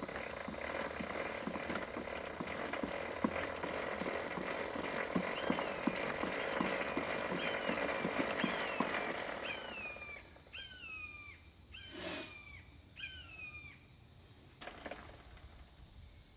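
A towel rubbing a dirt bike chain dry, with the links ticking irregularly, for about the first ten seconds. From about halfway in, a bird gives a series of about eight short curved calls, over a steady high insect buzz.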